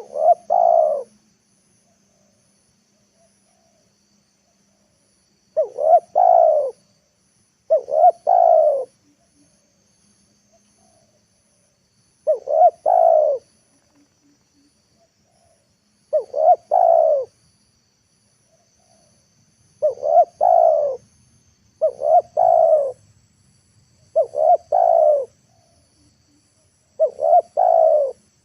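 Spotted dove (tekukur) cooing, the lure dove's call used to draw wild doves down. There are nine short, mid-low coo phrases of about a second each, repeated every two to four seconds.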